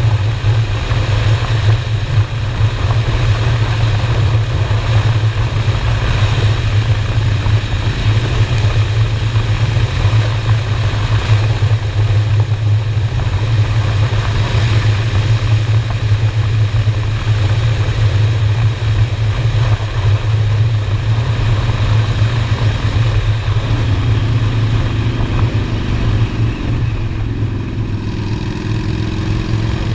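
Honda Shadow's V-twin engine running steadily at cruising speed, with wind rushing over the microphone. Near the end a higher engine tone joins and shifts in pitch.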